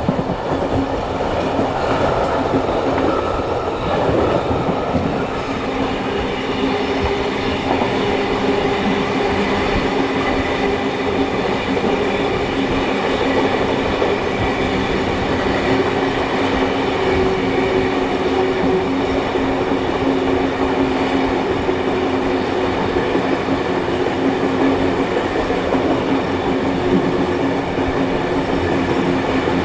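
Steam-hauled passenger train running steadily, heard from the carriages behind the locomotives: a continuous rumble of wheels on rails with some clickety-clack and a steady hum.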